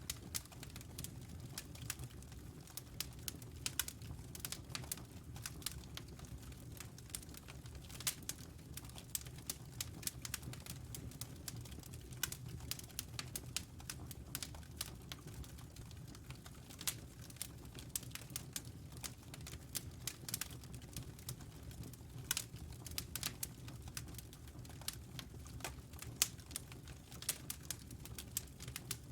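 Wood fire crackling, with many irregular sharp pops and snaps over a low steady rumble of the flames.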